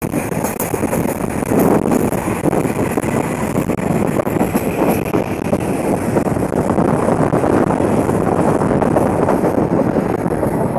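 Bangladesh Railway passenger train in motion: a steady, loud running rumble of the train.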